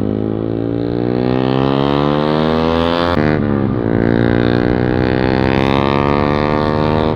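Yamaha MT-15's 155 cc single-cylinder engine through a modified exhaust with the dB killer removed, very loud. It revs up under acceleration, dips sharply at a gear change about three seconds in, then climbs again and holds.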